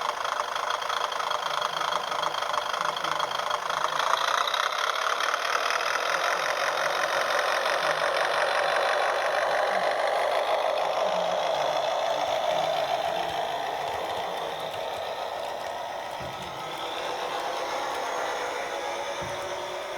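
HO-scale model diesel railcar train running on track: a dense rapid clatter of wheels over rail joints with a motor hum. It grows louder as it approaches, then fades away as it passes.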